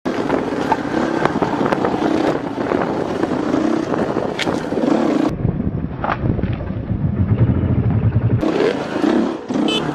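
Dirt bike engine running under rough, noisy riding sound. About five seconds in the sound turns duller, with a steady low engine hum for about three seconds, before the rough noise returns.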